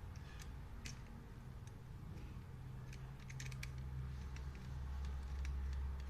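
Scattered small clicks and taps from handling small plastic camera accessories, with a quick cluster of clicks about halfway through, over a low steady hum.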